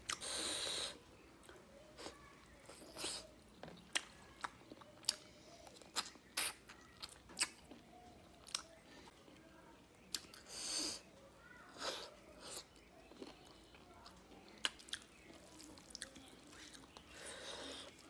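Close-miked chewing of a mouthful of rice and fish curry, with many sharp wet mouth clicks and smacks. There are three longer breathy bursts: one at the start, one about ten seconds in, and one near the end.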